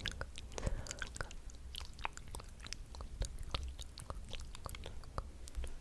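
Close-miked ASMR mouth sounds: irregular wet clicks and smacks of the lips and tongue, several a second.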